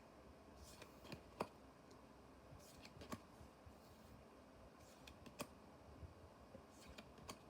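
Faint, irregular clicks and small snaps of trading cards and a booster pack being handled, about a dozen light taps scattered over a near-silent background.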